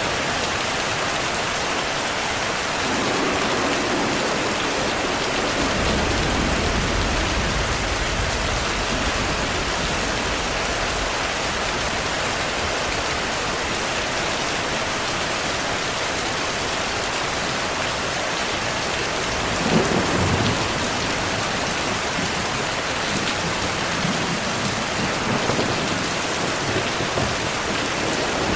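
Steady heavy rain falling, with low thunder rumbling under it and a sharper rumble about twenty seconds in.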